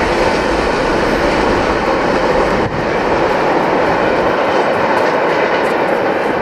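Freight train cars rolling past, a steady loud rumble and rush of steel wheels on rail, with the deepest rumble easing off about four seconds in.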